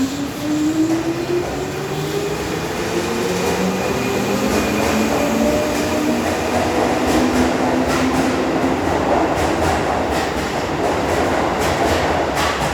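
Keihan electric train accelerating, its traction motors whining in several tones that rise steadily in pitch over the first half. Then comes a rumble of wheels on rail with repeated clicks over the rail joints.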